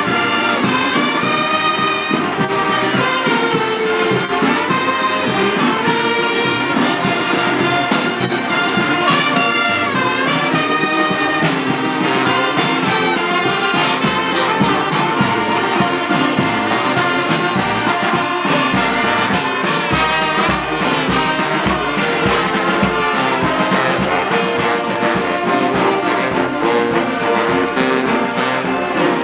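Brass band playing, with trumpets and trombones carrying the melody.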